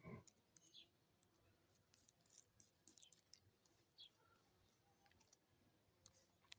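Near silence with faint, scattered light clicks.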